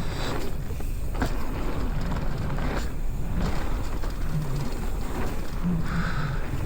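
Mountain bike riding down a dirt trail: wind rumbling on the camera microphone over tyre noise, with scattered knocks and rattles as the bike hits bumps.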